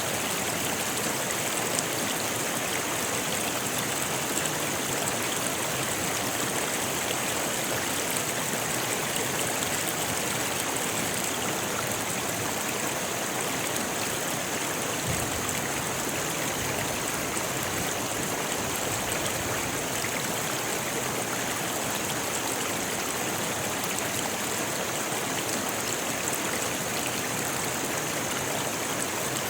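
A rocky river rushing steadily over stones, an even hiss of flowing water.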